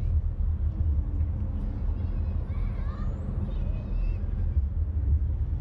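A steady low rumble, with faint voices talking in the background about halfway through.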